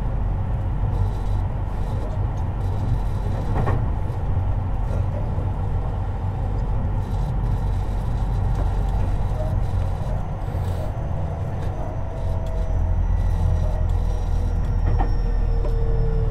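Tobu 50090 series electric train running, heard from near the floor of a car: a steady low rumble, with two sharp knocks a few seconds in and near the end. In the second half a thin whine falls slowly in pitch.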